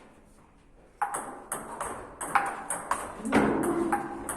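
Table tennis ball clicking off bats and table in a rally, about two sharp clicks a second, starting about a second in. A louder, longer noise comes near the end.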